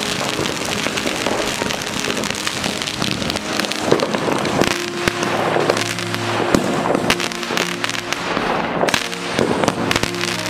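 Fireworks going off close by: a dense crackle of small bangs over a hiss of spraying sparks, with a few sharper bangs, the loudest about four seconds in. Music with held notes plays underneath.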